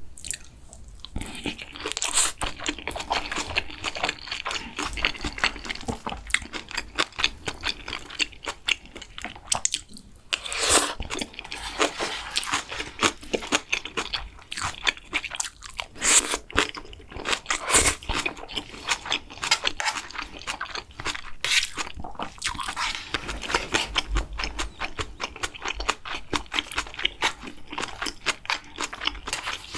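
Close-miked chewing and crunching of food, a dense run of wet crackles and mouth clicks with a brief pause about a third of the way in.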